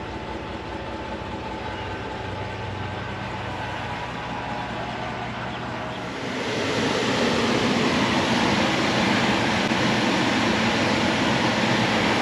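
Chevrolet Silverado 1500 pickup driving: a steady engine hum, then road and engine noise that grows louder about halfway through and holds.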